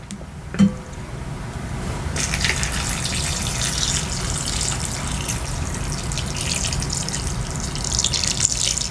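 Hot broth poured steadily into a bowl: a continuous liquid pour that comes in about a second in and grows fuller about two seconds in. A short knock just before the pour starts.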